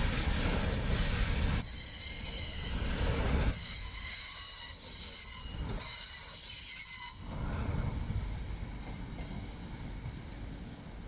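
A train running past with a low rumble. About a second and a half in, a high-pitched wheel squeal starts and dominates for some five seconds, briefly breaking off partway. After that it fades back to a quieter rumble.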